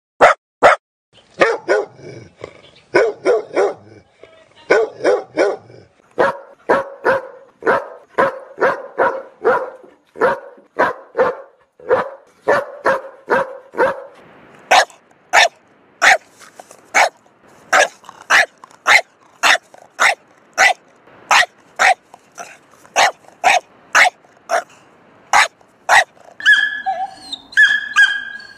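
Dogs barking repeatedly in runs of short, sharp barks, from about the middle at roughly two barks a second. Near the end the calls turn higher-pitched and more drawn out.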